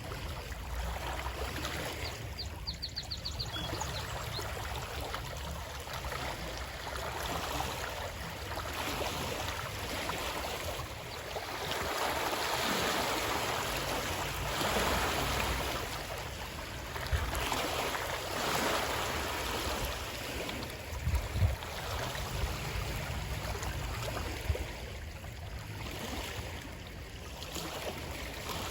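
Running water, a steady rushing that swells louder and eases off in slow waves, with a low rumble beneath. A short rapid run of high chirps comes a few seconds in, and a few dull low thumps sound about two-thirds of the way through.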